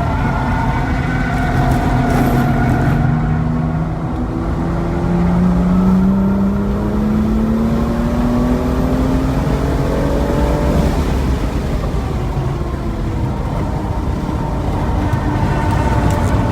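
BMW M235i's turbocharged 3.0-litre inline-six under hard track driving: the engine note drops off about two seconds in, then climbs steadily for about seven seconds in a long full-throttle pull before easing, over steady tyre and wind noise.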